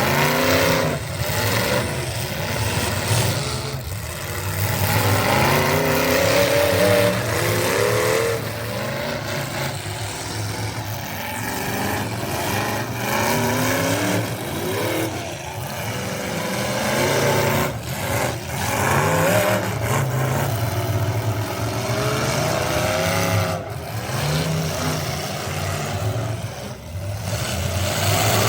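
Competition truck engine revving hard, its pitch climbing and dropping again and again in repeated rising sweeps.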